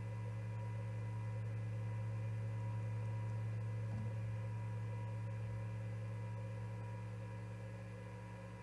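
Steady electrical hum, a low drone with several fixed higher tones above it. A faint brief knock comes about four seconds in.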